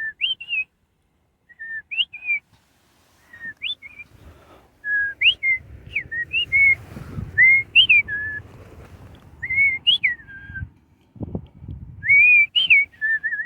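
A string of clear, short whistled notes sliding up and down in pitch, with brief pauses, ending in a quick warbling trill near the end. A low rumble sits under the notes in the middle.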